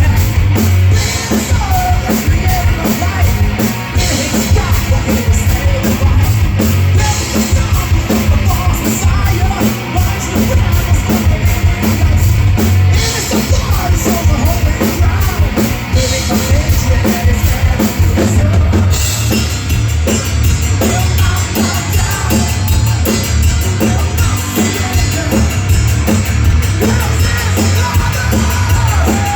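Heavy metal band playing live at full volume, the drum kit prominent. A little past halfway the cymbal strokes become faster and denser.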